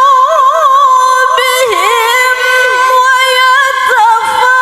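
A woman reciting the Qur'an in melodic tilawah style, singing "wa 'ala junubihim" as one long, high held phrase with wavering, ornamented turns in pitch and a brief dip in pitch partway through.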